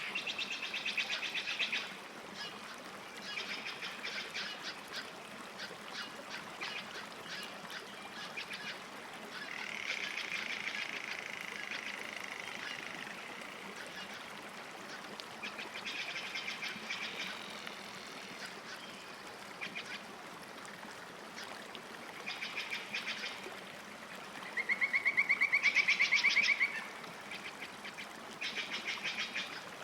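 Birds calling at a lake: short rattling trills of very fast pulses, repeated every few seconds, the loudest and longest about 25 seconds in, over faint steady background hiss.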